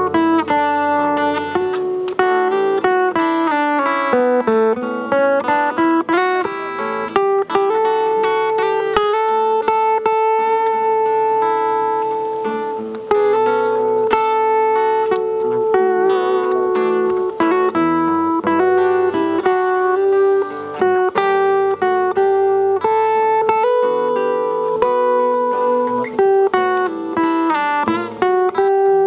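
Instrumental music led by strummed acoustic guitar, with sustained held notes over it.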